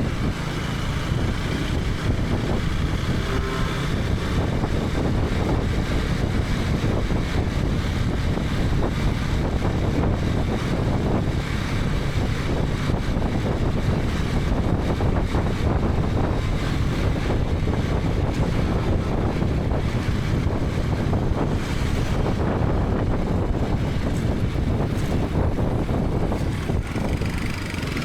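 KTM 250 Adventure's single-cylinder engine running while riding, under a steady rush of wind noise on the camera microphone.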